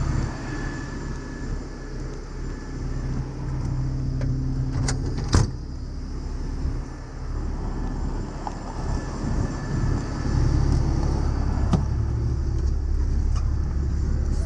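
Heavy tow truck's diesel engine running under load as it moves off slowly towing a semi tractor, a steady low drone that grows stronger about two thirds of the way through. A couple of sharp clicks or knocks cut through it.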